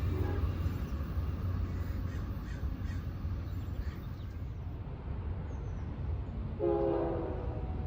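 Steady low rumble of a train, with a short train horn blast near the end.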